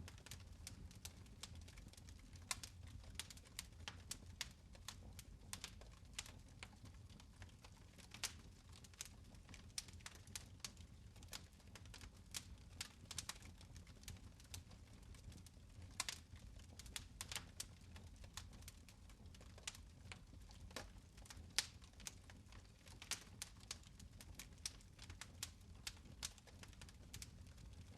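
Fire in a fireplace crackling faintly: irregular sharp pops and snaps over a low steady rumble, with a few louder snaps, the strongest about 21 seconds in.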